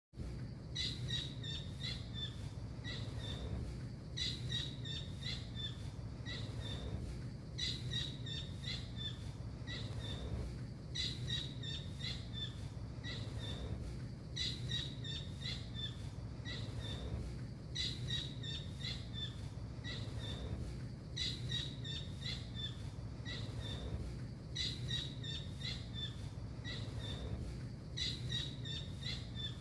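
Blue kingfisher (tengkek biru) calling: bursts of rapid, sharp, high-pitched notes that repeat about every three and a half seconds, over a steady low hum.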